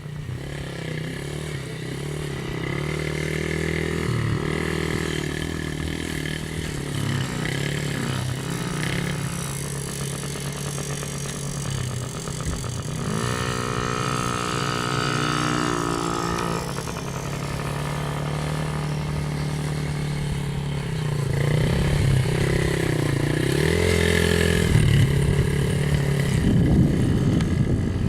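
Small dirt bike engines running, their pitch rising and falling with the throttle. About 13 seconds in, a higher engine note comes in for a few seconds.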